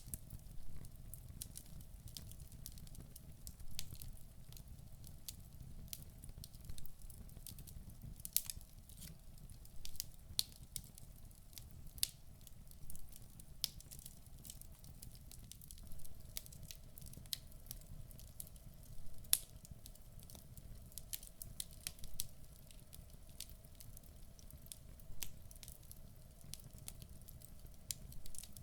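Wood fire in a fireplace crackling and popping: irregular sharp snaps, several a second at times, over a low steady rumble of the burning logs.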